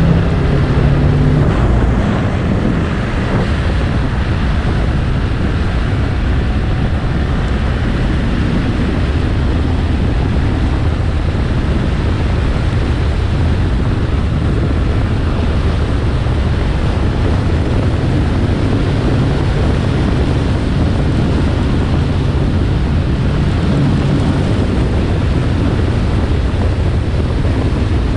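A vehicle running steadily at speed, with heavy wind rushing over the microphone and a deep, even rumble.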